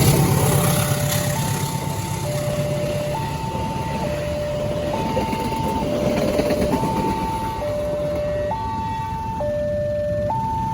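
Railway level-crossing warning alarm sounding a two-tone electronic signal, alternating steadily between a higher and a lower note about once a second. A passing train's rumble is loud at first and fades over the first few seconds.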